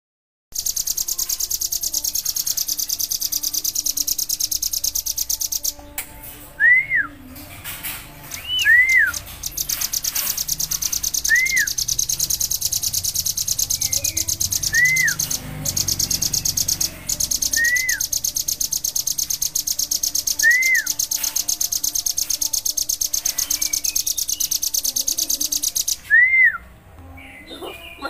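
Bar-winged prinia (ciblek) singing its fast, high-pitched rattling trill ('ngebren') in long runs, which break off about six seconds in and again near the end. A short arched call note repeats every two to three seconds.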